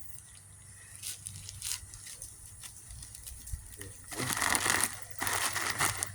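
Rustling and crinkling of garden material being dumped onto a compost pile: a few light clicks at first, then a louder run of crinkling and pouring about four seconds in.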